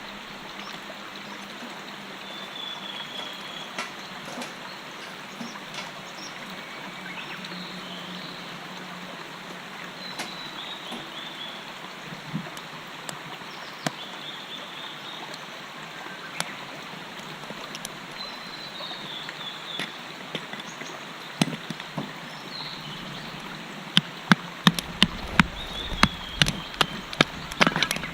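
Shallow stream babbling steadily, with short high chirps every few seconds; near the end a quick series of sharp knocks.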